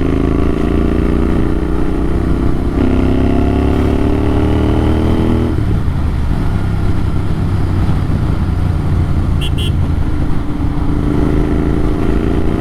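Motorcycle engine through an AEW TE102 exhaust with the dB killer removed, running loud and raw. Its pitch climbs for about five seconds, with a step about three seconds in, then drops and holds steady and lower. A brief high double beep comes about nine and a half seconds in.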